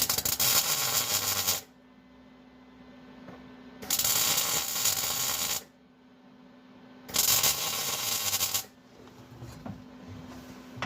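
Welding arc crackling in three bursts of a second or two each, tack welds on a sheet-metal floor patch, with a steady low hum in the pauses between them.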